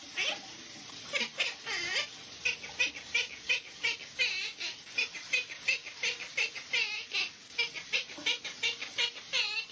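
Parrot chattering: a fast run of short chirps and whistles that bend in pitch, about three or four a second.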